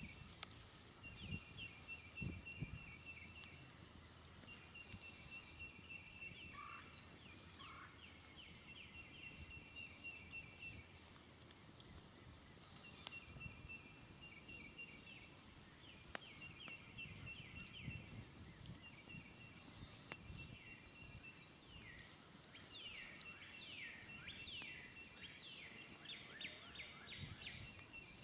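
Faint outdoor birdsong. A high, rapid trill repeats every few seconds, joined near the end by quick falling chirps from other birds. A few soft crackles from a smoldering campfire sit underneath.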